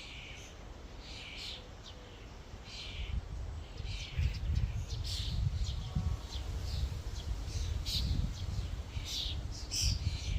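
A flock of common starlings calling: many short, scratchy chirps and squeaks overlapping, busier from about four seconds in, over a low rumble.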